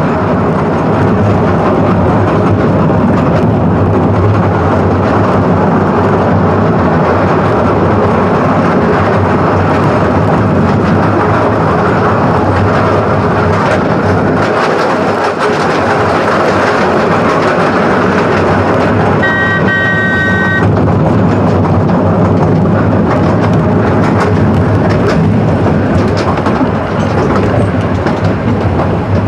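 Miniature railway train running, heard from the carriages, with a steady rumble and clatter of wheels on the track. About two-thirds of the way through there is a single short warning blast from the locomotive, lasting about a second and a half.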